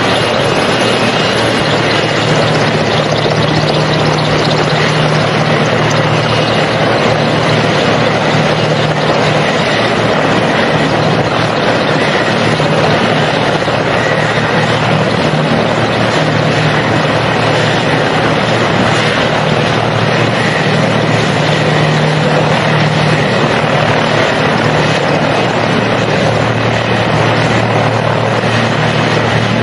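Helicopter running, a loud, steady rotor and engine noise that holds unchanged throughout.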